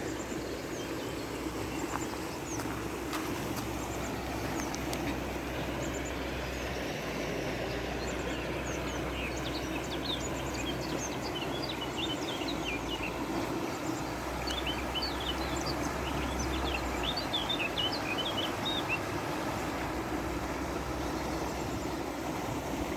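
Small birds chirping many times over a steady outdoor rushing noise with a low rumble. The chirping is thickest through the middle of the stretch.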